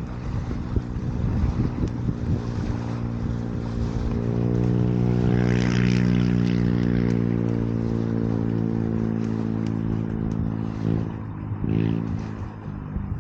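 A motor engine passes by, its hum swelling about four seconds in, loudest around the middle, and fading away near the end, over wind and scattered small crackles.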